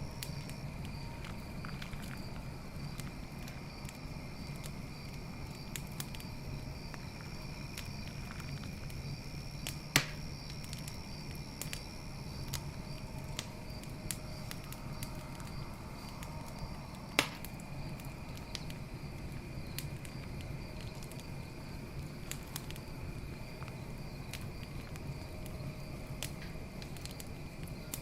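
Wood fire crackling with many small pops and two much louder snaps, about ten and seventeen seconds in, over a low rumble of burning. Night insects trill steadily in the background, one of them in an even pulsing rhythm.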